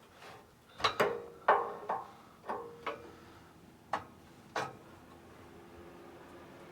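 Metal hand tools clinking: about eight sharp clinks, some with a short metallic ring, in the first five seconds, as sockets are handled while fitting an exhaust clamp.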